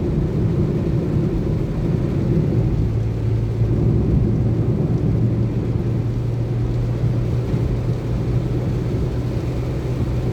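Steady low rumble of a car driving, heard from inside the cabin, with engine hum and road noise; the engine hum steadies into an even drone about three seconds in.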